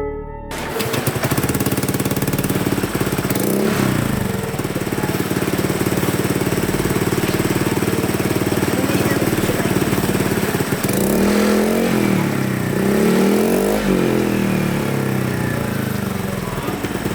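Motor scooter engine running, revving up and falling back about three seconds in and again several times in the last third.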